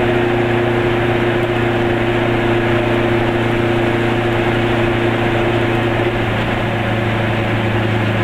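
Car engine running with a steady drone at cruising speed, with tyre and road noise, heard from inside the cabin.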